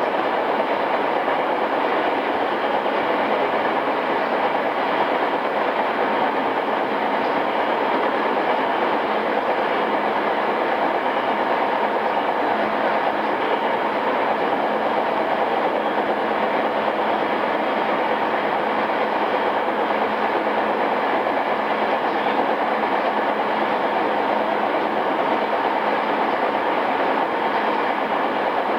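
Running sound inside a JR East E217-series commuter train motor car, in its pre-renewal state, travelling at a steady speed: an even rumble of wheels on rail with a faint steady whine, recorded on cassette tape.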